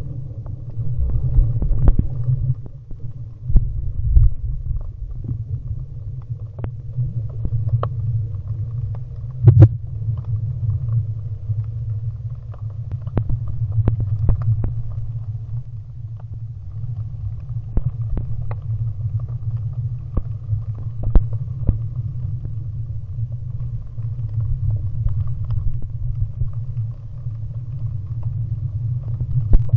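Muffled underwater ambience: a steady low rumble, with scattered sharp clicks.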